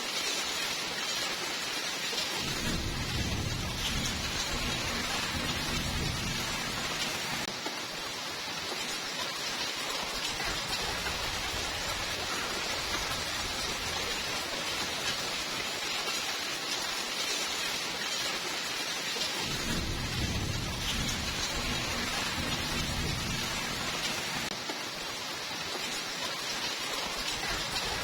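Steady heavy rainfall, with two long low rolls of thunder, one a few seconds in and another about two-thirds of the way through.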